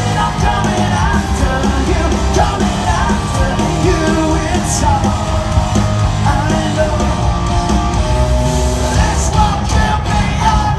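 Loud rock music from a band playing live, with a singer's vocals sung and partly yelled over the band.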